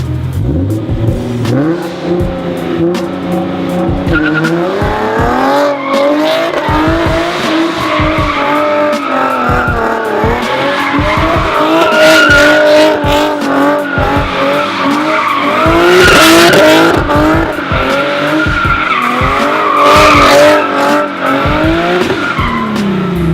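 A car engine revving hard, its pitch climbing and falling again and again, with tyres squealing in loud stretches about halfway through and near the end.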